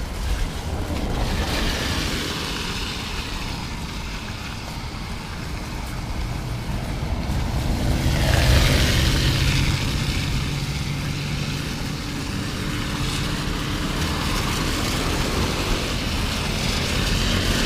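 Motor vehicles passing on a wet road: a low engine hum with tyre hiss that swells and fades, loudest about eight seconds in and again near the end.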